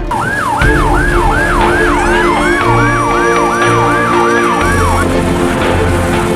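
Patrol vehicle siren yelping, its pitch sweeping rapidly up and down a little under three times a second, with a second, steadier siren tone joining about two seconds in; both stop about five seconds in. Background music with steady notes runs beneath.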